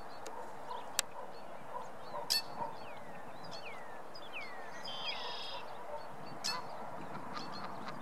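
Birds calling: a string of thin, falling whistled calls about once a second, with a short call of several stacked pitches about five seconds in. A few sharp clicks stand out, the loudest about a second in.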